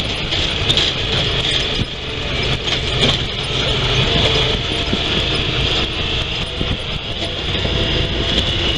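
Honda Pioneer 1000 side-by-side driving over a rocky track: its engine running steadily under a constant rushing noise, with scattered small knocks and rattles from the rough ground.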